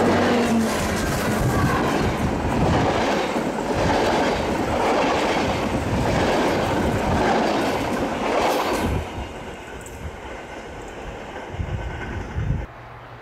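Passenger coaches of a locomotive-hauled train rolling past close by at speed, wheels clattering. The noise drops about nine seconds in as the last coach goes by and trails away, then cuts off abruptly near the end.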